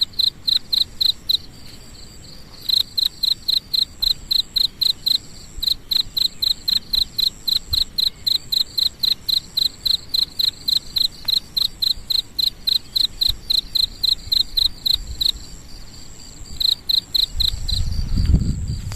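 An insect chirping in a steady pulsed rhythm, about four high-pitched chirps a second, breaking off briefly twice before starting again. A low rumble comes in near the end.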